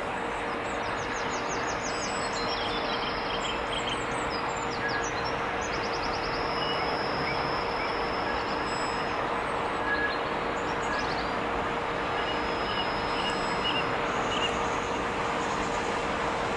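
Steady mechanical rumble that slowly grows louder, with small birds singing trills over it in the first few seconds and chirping now and then after.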